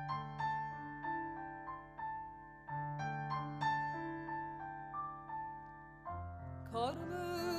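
Piano playing a slow, gentle figure of struck notes that ring and fade, repeating about every two and a half seconds: the instrumental introduction to the song. Near the end a low held note and a sliding tone join in just before the singing starts.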